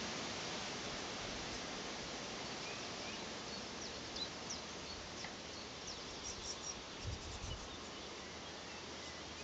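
Small garden birds giving short, high chirps and calls, scattered through the middle, over a steady background hiss, with a brief low thump about seven seconds in.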